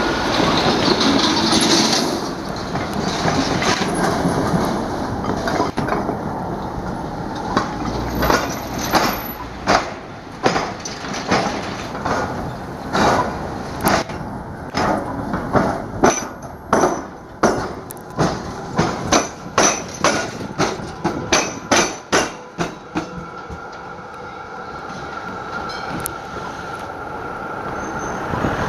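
Electric suburban train running over the tram-square diamond crossing, its wheels banging over the gaps where the tram rails cut the railway tracks. It gives a long run of sharp clanks that comes quicker before the train clears and the sound fades.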